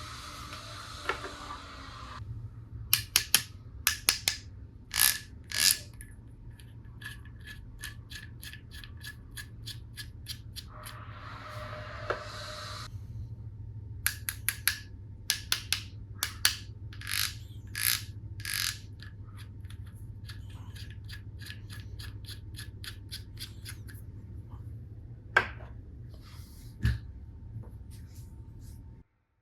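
Plastic toy tool pieces being handled: a run of sharp clicks and taps, with two short stretches of steady noise, about two seconds each, near the start and in the middle, over a low steady hum. The sound cuts off just before the end.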